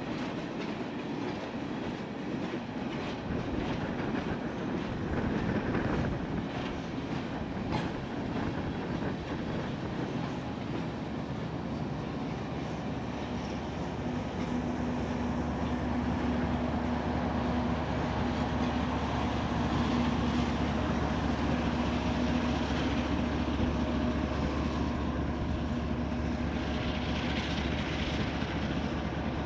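Freight cars of a Union Pacific manifest train rolling past, wheels clicking over the rail joints. About halfway through a steady low drone with a held tone joins the rolling noise.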